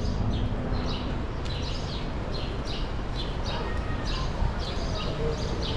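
A small bird chirping repeatedly, about two short high chirps a second, over a steady low background rumble of street noise.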